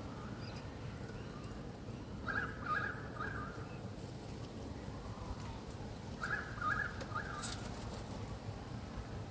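Currawong calling: two short phrases of three quick notes each, about four seconds apart.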